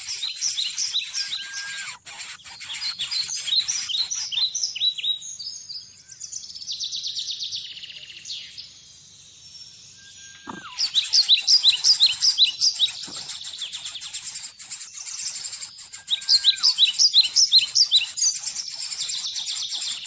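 Bird chirping in quick runs of short, high, falling notes, several a second, with a lull of a few seconds midway. A steady high hiss lies underneath.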